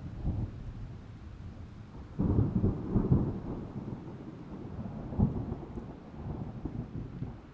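Thunder rumbling during a rainstorm: a loud clap breaks in about two seconds in and rolls on, with another peak a few seconds later, then dies away near the end.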